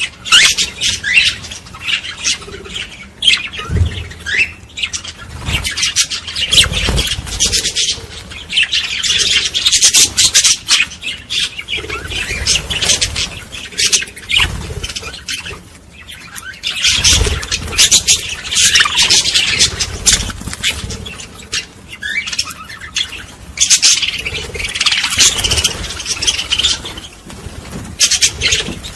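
A flock of small birds chirping and squawking in dense, high-pitched chatter that swells and eases in waves, with a few soft low thumps here and there.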